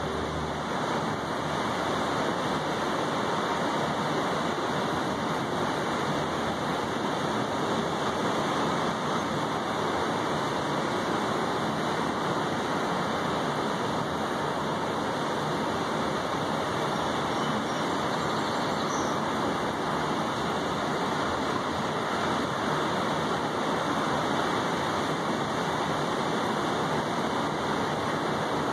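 Steady rain falling on a balcony, an even hiss with no break and no change in strength.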